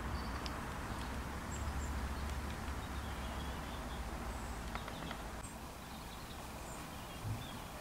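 Quiet outdoor ambience: a steady low rumble with faint, high chirps of small birds scattered through it.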